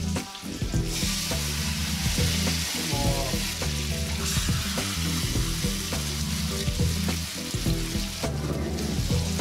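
Battered chicken wings frying in hot olive oil in a pan, the oil sizzling with a steady hiss that swells about a second in and eases near the end. Background music with a heavy bass line runs underneath.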